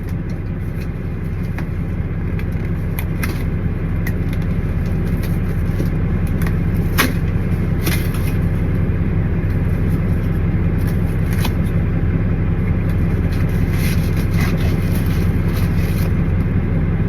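Steady low hum of an idling truck engine, with a few sharp clicks and crinkles of a cardboard box being opened, the loudest about halfway through.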